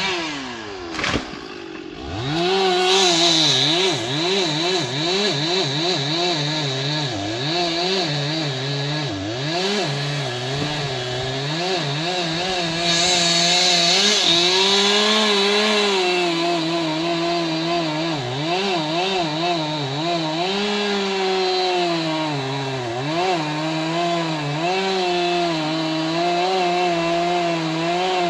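Stihl MS 881 two-stroke chainsaw cutting wood. In the first two seconds the engine drops off toward idle with a sharp click, then revs back up. From there it runs under load to the end, its engine speed repeatedly dipping as the chain bites and picking up again.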